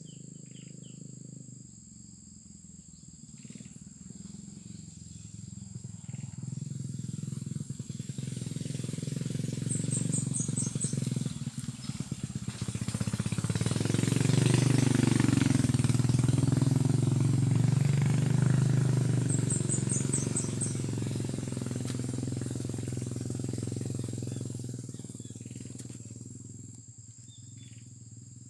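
Engine of a passing vehicle, growing louder over about ten seconds, peaking, then fading away. A steady high insect drone continues underneath.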